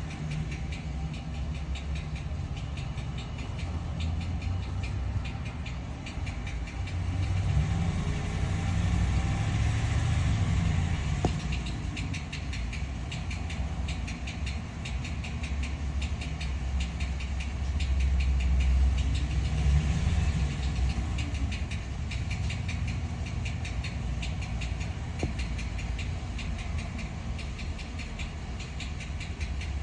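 2014 Ram 1500's 5.7 L Hemi V8 engine running, its speed rising and falling twice, with a fast, even ticking throughout. This is the unidentified noise the owner is asking about.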